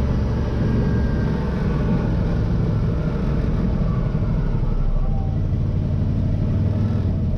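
CFMOTO ZForce 800 EX side-by-side's V-twin engine running with a steady low rumble.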